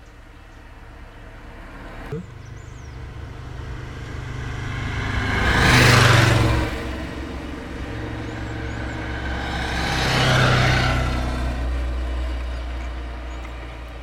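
Two road vehicles driving past one after the other. The engine and tyre sound swells and fades for each, the first loudest about six seconds in and the second about ten seconds in. There is a brief knock about two seconds in, and faint bird chirps high in the background.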